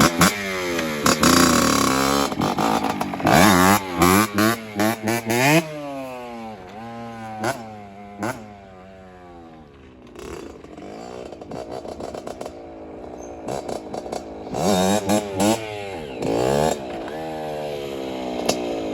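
Kawasaki KX65 two-stroke dirt bike engine revving in sharp throttle blips as the rider pulls up wheelies, its pitch rising and falling. It fades as the bike moves off about a third of the way in, is quieter for a few seconds, then revs loudly again near the end.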